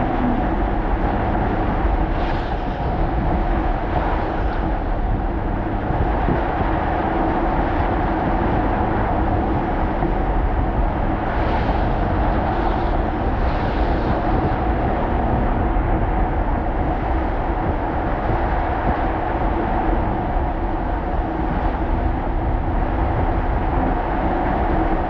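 Alpina XB7 SUV driving on snowy streets: a steady drone of engine and road noise, with a few brief whooshes about two seconds in and again around twelve seconds.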